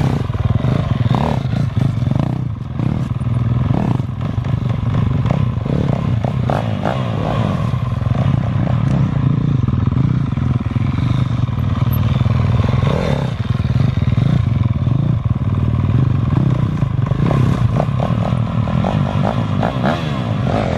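Dirt bike engine running loud and steady at an even pitch, without big revs.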